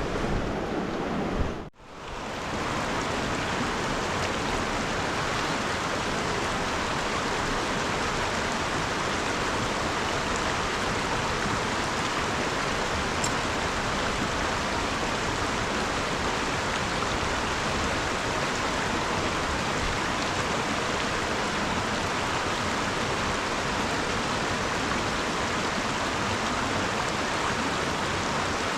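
River water rushing steadily, after the sound cuts out briefly about two seconds in.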